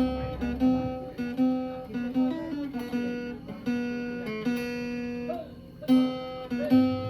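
Acoustic guitar picking a slow melody, one plucked note after another, each ringing out before the next.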